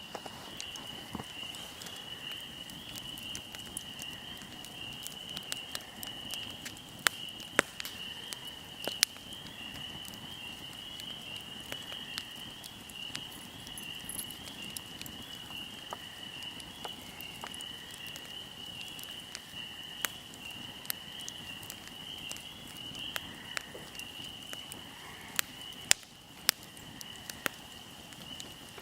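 Fire crackling, with sharp pops scattered through it, the loudest a few around seven to nine seconds in and one near the end. Under it runs a steady, high cricket chirping.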